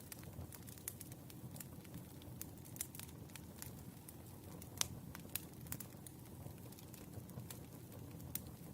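Firewood burning, crackling: irregular sharp pops and snaps over a low, steady rumble, with one louder pop about five seconds in.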